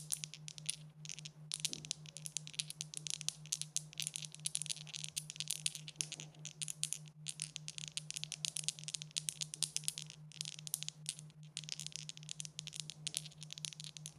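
Dice rattling together continuously, a dense run of sharp, bright clicks that stops abruptly at the end. A low hum pulsing a few times a second runs underneath.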